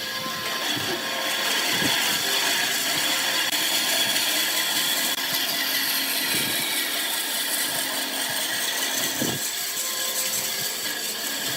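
A wood lathe running while a cutting tool works the spinning wood: a steady scraping hiss, with a few soft low knocks.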